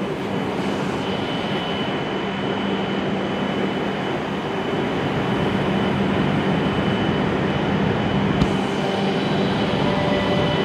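W7 series Shinkansen train running slowly alongside the platform and coming to a stop, a steady rumble with a low hum. A faint click comes near the end.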